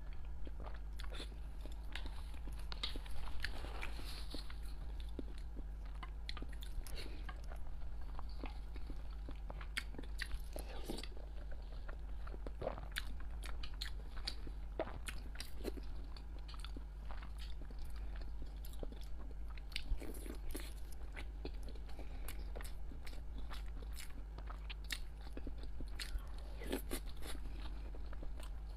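Close-miked chewing of peeled boiled eggs and century eggs, with many small wet clicks and smacks of the mouth, over a steady low hum.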